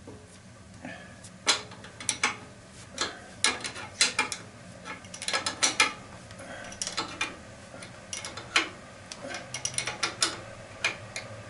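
Irregular metallic clicks and clanks of hand tools being handled and worked, over a steady low hum.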